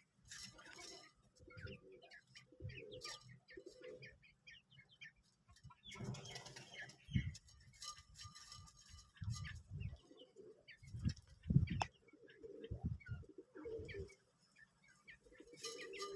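A cage of quails calling, with short scattered chirps and low coos, amid bursts of wing flapping and scuffling and a few dull low thuds.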